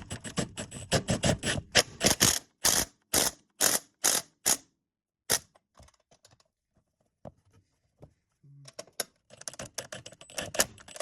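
Hand wrench clicking and clinking on the sway bar bushing bolts: a quick run of clicks, then sharp clicks about twice a second, a pause, and more clicking near the end.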